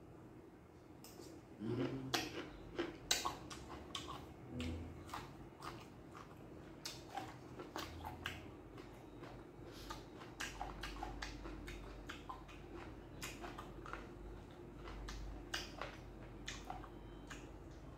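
Close-up eating sounds: a person chewing dried grilled beef and raw vegetables, with many short wet clicks and mouth smacks throughout, loudest about two to three seconds in.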